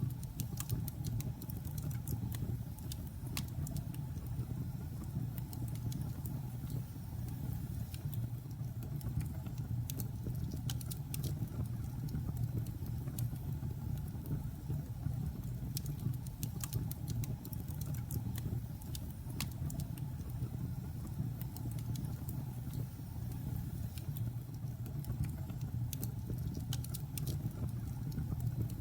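Logs burning in a fireplace: a steady low rumble of the fire with scattered sharp crackles and pops from the wood.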